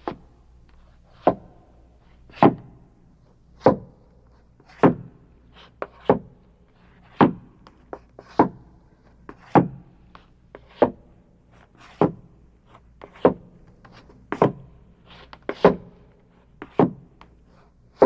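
A slow, evenly paced series of heavy thuds, about one every 1.2 seconds, each with a short ringing tail and fainter knocks between them, over a low steady hum.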